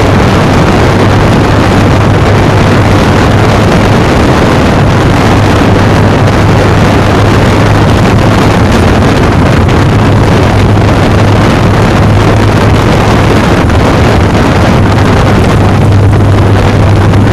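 Motorcycle engine running at a steady speed, its note holding level, under heavy wind rush on the microphone.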